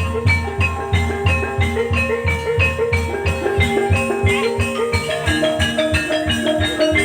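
Javanese gamelan-style music accompanying an ebeg dance: struck metallophone and mallet-percussion melody over a steady drum beat, with no singing.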